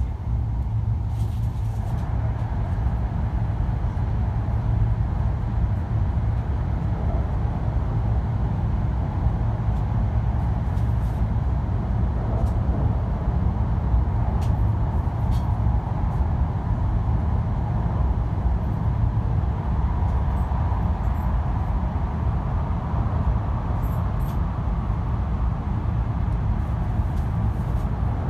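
E5 series Shinkansen running, heard inside the passenger cabin: a steady low rumble with rushing noise over it.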